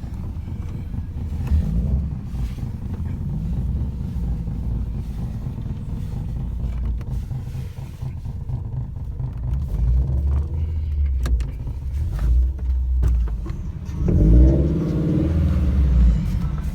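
Car engine rumbling at low revs, with a rev about fourteen seconds in where the pitch climbs and falls back.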